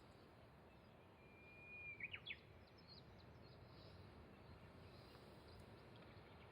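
Faint outdoor background noise with a bird singing about a second in: one long steady whistle followed by a few quick sweeping notes, then a few faint high chirps.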